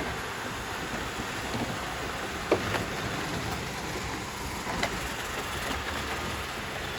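Several robot vacuums running at once, a steady whirring hum, with a couple of sharp clicks.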